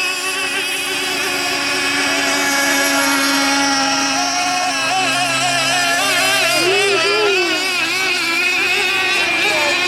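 Radio-controlled model racing boats running on the water, several motors whining together at steady pitches that waver and shift as the boats change speed.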